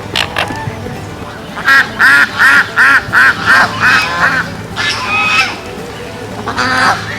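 Geese honking: a rapid run of about ten honks, roughly four a second, then a few more scattered calls near the end.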